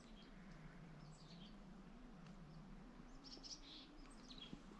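Near silence with a few faint, high bird chirps, the clearest cluster about three seconds in.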